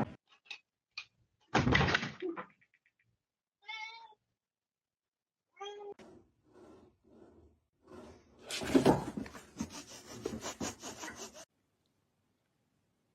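A cat meowing a few short times, with loud bursts of rustling or knocking noise before and after the calls.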